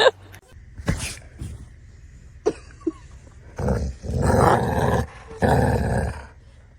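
A dog growling in two long, rough stretches, the first starting about three and a half seconds in and the second just after it, with a few faint knocks before.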